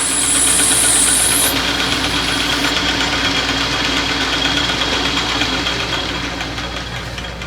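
Metal lathe running while a boring tool cuts out the inside of a part held in the chuck, a steady machine hum with a high cutting hiss in the first second and a half. The sound eases off toward the end.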